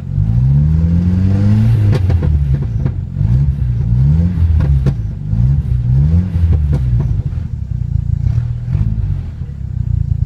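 1993 Jeep Wrangler's 2.5-litre four-cylinder engine being revved: one long rise in pitch, then about five quick blips of the throttle, settling back to a steady idle for the last few seconds. It revs up nice and smooth.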